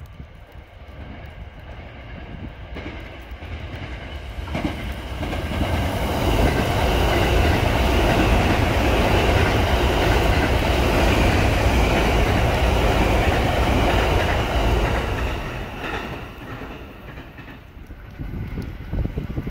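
Thunderbird limited express electric train passing through the station at speed. It grows louder as it approaches, runs past with its wheels clattering over the rail joints, then fades away.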